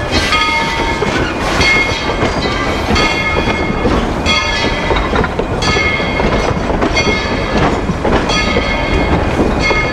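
Narrow-gauge train rolling along the track: a steady rumble with wheels clattering over the rails and short ringing metallic tones recurring about once a second.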